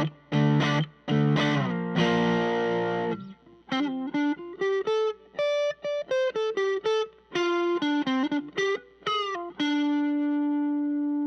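Telecaster-style electric guitar played through an amp: a few strummed chords, then a quick single-note lick, ending on one held note that rings out.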